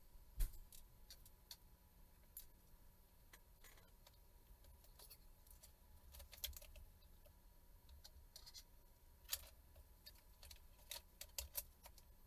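Faint, scattered small clicks and light taps, irregular, from small tools and parts being handled, with a sharper click about half a second in and a cluster of clicks near the end.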